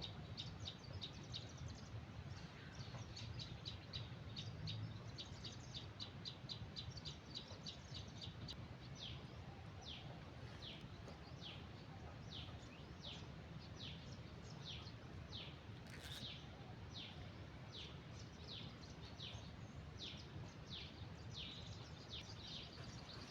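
A small bird calling over faint outdoor background noise: a fast run of short high chirps, then slower, evenly spaced notes that each slide downward. A single sharp click comes about two-thirds of the way in.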